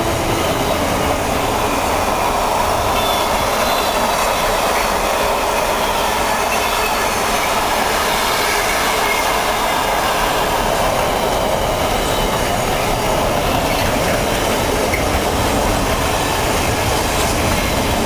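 Container flat wagons of a Class 66-hauled freight train rolling past close by: a steady, loud noise of steel wheels running on the rails.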